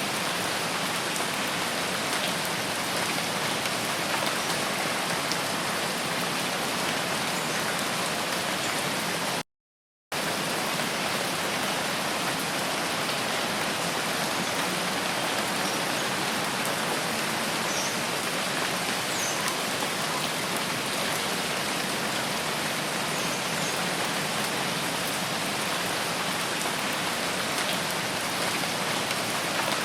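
Steady rain falling, a dense even hiss with no let-up in level; it cuts out completely for about half a second roughly a third of the way in, then resumes unchanged.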